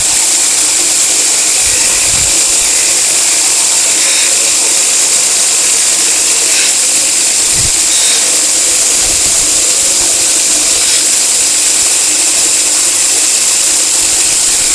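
A 2x72 inch belt grinder running with an abrasive wheel on its auxiliary shaft, making a loud, steady hiss that does not change.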